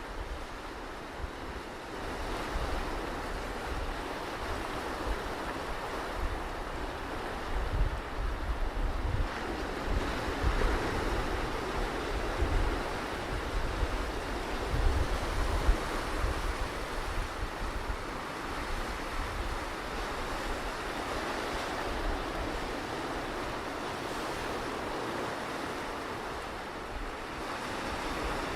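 Ocean surf washing onto a beach in a continuous hiss that swells and eases, with wind gusting on the microphone as uneven low rumbles.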